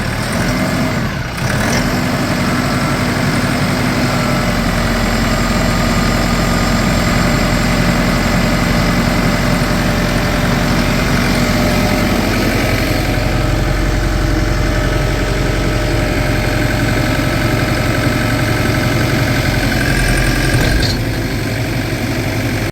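TYM 654 tractor's diesel engine running steadily after starting on a fresh battery, its pitch wavering in the first couple of seconds before settling.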